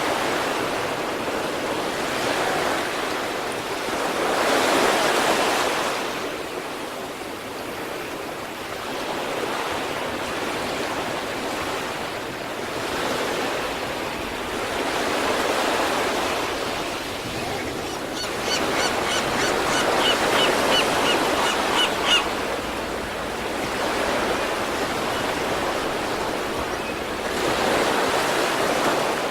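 Sea waves breaking and washing up on the shore, swelling and fading every few seconds. About two-thirds of the way through, a run of short high chirps repeats, about two or three a second, for some four seconds.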